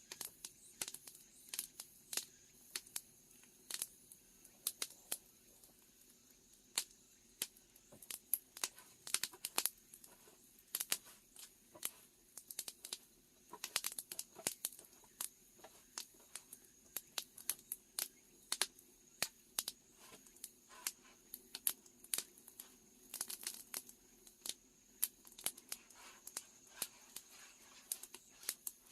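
Wood fire burning in the firebox under a cauldron, crackling with many irregular sharp pops and snaps.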